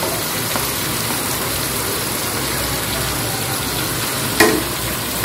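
Potatoes and onion masala frying in oil in a pot, a steady sizzle as chopped tomatoes are tipped in, with one sharp knock about four seconds in.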